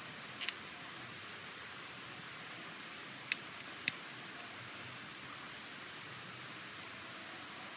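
Small wood fire burning in a camp fire pit: a steady hiss with three sharp pops, one about half a second in and two close together between three and four seconds in.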